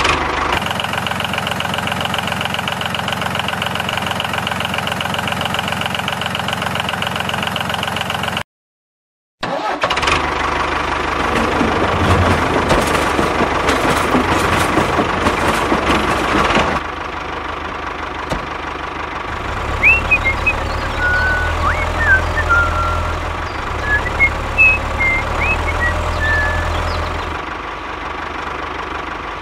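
The small motor of a handmade toy tractor running steadily. After a short break it runs louder and rougher for several seconds, then settles into a quieter, low pulsing run, with a few short chirps near the end.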